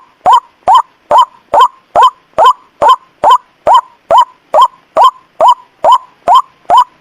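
White-breasted waterhen (ruak-ruak) call, used as a bird-trapping lure: a short, loud honking note repeated at a steady, even rate of a little over two a second.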